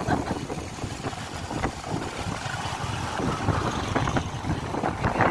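Wind buffeting the microphone of a moving motorcycle, with a steady low engine rumble beneath.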